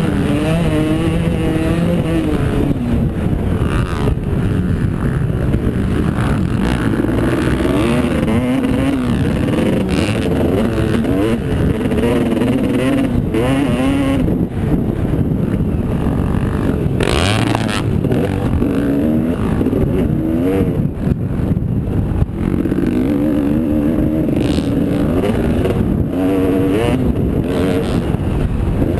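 Motocross bike engines running hard, their pitch rising and falling over and over as the throttle opens and closes.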